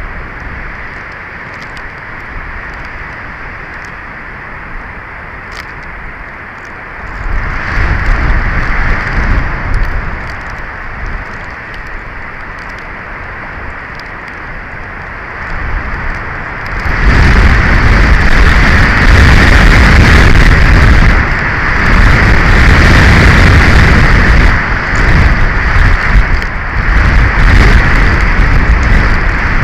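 Strong wind buffeting the nest camera's microphone: a steady rush that swells into a loud gust about seven seconds in, then into heavy, continuous buffeting from about halfway on.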